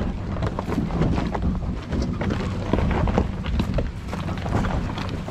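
An off-road pickup's low engine rumble as it crawls over rocky ground, with scattered crunches and clicks of stones and wind buffeting the microphone.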